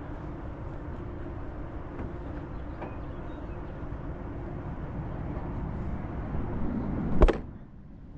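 Steady low mechanical running noise with a faint hum, cut by one loud sharp knock about seven seconds in, after which it is quieter.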